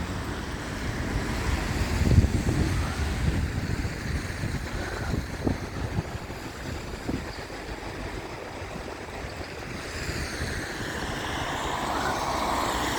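Outdoor seafront ambience: a steady low rumble of wind on the microphone and road traffic, with a broader rushing noise building near the end.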